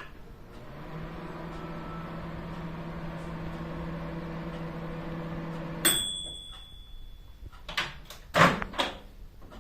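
Gorenje 800 W microwave oven running with a steady hum for about five seconds, then stopping with a click and a single ringing ding from its timer bell. About two and a half seconds later come a few sharp knocks, like the door latch being released and the door opened.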